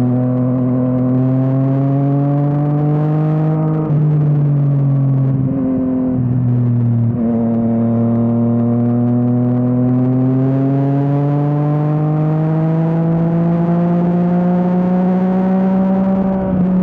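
Yamaha MT-09's three-cylinder engine through an Akrapovič exhaust, pulling up through the revs. There is a sharp gear change about four seconds in and the revs drop and waver for a few seconds, then the engine builds steadily again until another gear change near the end.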